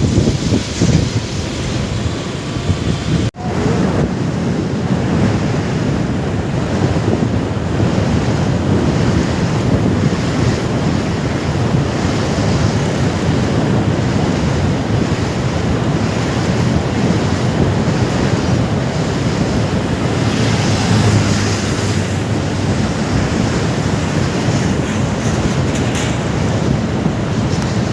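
Wind rushing over the microphone of a moving motorcycle, a steady, loud buffeting rush that cuts out briefly about three seconds in.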